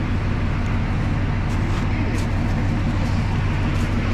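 Narrow-gauge diesel locomotive engine idling with a steady low drone, with a few faint light clicks over it.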